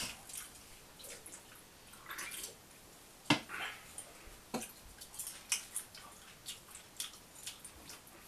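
Ketchup-covered popcorn being chewed: scattered small clicks, a few a second, with a sharper one a little over three seconds in.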